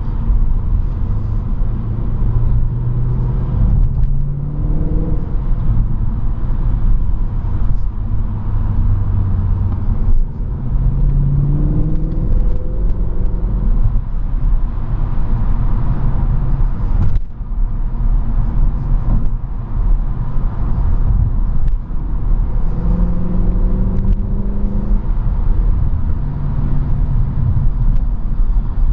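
Mercedes-Benz C63 AMG (W204) 6.2-litre V8 heard from inside the cabin while driving in traffic: a steady low rumble whose engine note climbs and settles back several times as the car accelerates and eases off.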